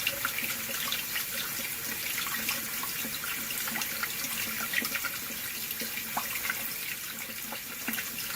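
Water running steadily from a sink faucet into a glass, with small splashes and drips throughout.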